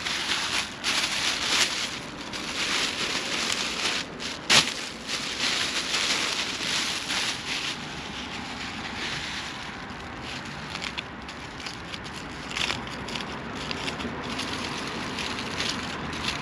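Food wrapper crinkling and rustling in irregular bursts as a wrapped döner is handled and eaten, busier in the first half, with one sharp crackle about four and a half seconds in.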